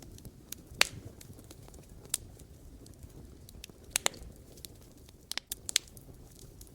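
Firewood burning in a campfire, crackling with sharp irregular pops: a loud one about a second in, a double pop around four seconds, and a quick cluster of pops near the end, over a low steady rumble of the flames.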